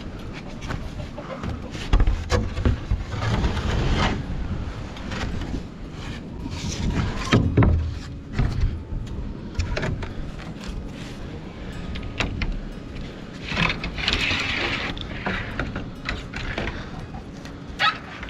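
Gusty wind buffeting the microphone, mixed with irregular knocks, clatters and scrapes of sheet-metal roofing and boards being pulled loose and handled on a chicken coop roof. There are longer scraping, rushing stretches a few seconds in, around the middle and toward the end.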